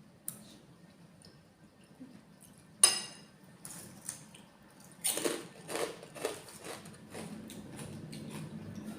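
A metal spoon clinking against a dish, with one loud ringing clink about three seconds in, then a quick run of shorter scraping clinks.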